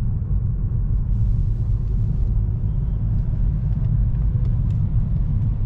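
Steady low rumble of road and engine noise inside a moving car, with a brief hiss from about one to two seconds in.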